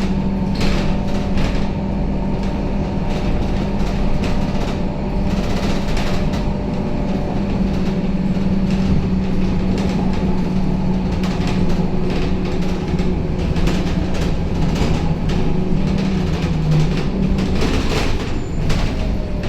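Scania K270UB city bus heard from inside the passenger cabin while driving: its five-cylinder diesel engine runs with a steady hum, and interior panels and fittings rattle throughout. The engine note drops near the end.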